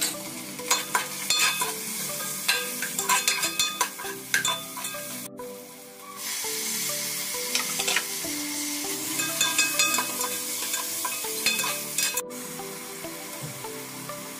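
Onions, spices and tomatoes sizzling in hot oil in an aluminium pressure cooker, with clusters of quick scrapes and clinks of a metal spoon against the pot as they are stirred. The sizzle drops briefly about five seconds in.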